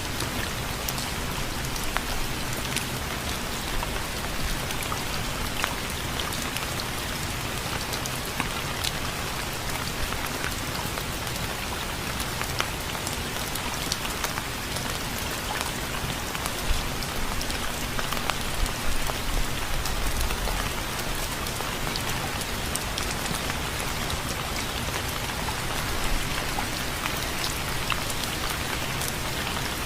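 Steady rain falling on a surface, a dense hiss with many individual drops ticking.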